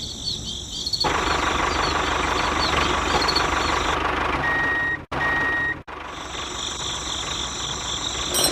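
The small electric motor of a DIY toy tractor starts running about a second in and keeps a steady whir. It drops out briefly twice near the middle, with two short steady beeps around the same time. A high, regular chirping, like crickets, carries on throughout.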